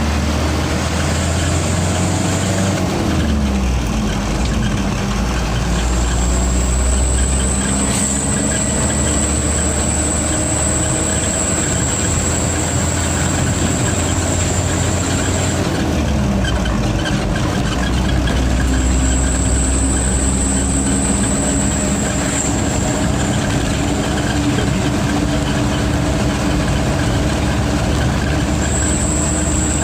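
Diesel truck engine running under load, its pitch dropping a couple of times and then climbing slowly. A high steady turbo whine comes in for stretches of several seconds and drops out between them.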